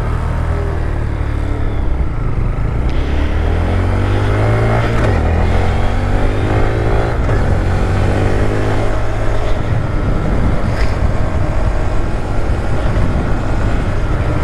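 Honda Grom's 125 cc single-cylinder engine running at a steady road speed under a continuous rush of road noise, its pitch shifting up and down between about four and nine seconds in.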